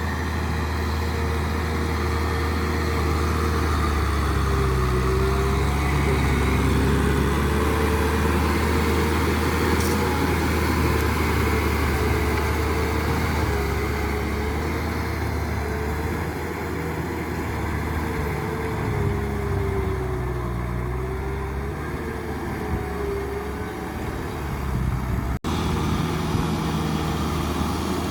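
Tractor engine running steadily under load while working a field, its pitch wavering slightly up and down, with a momentary break near the end.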